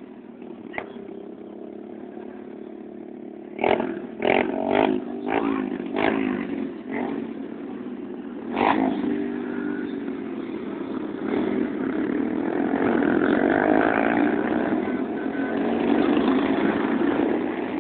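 Motorcycle engines running and revving, with a run of loud sharp bangs from about four to nine seconds in. Near the end an engine grows louder, its pitch bending up and down.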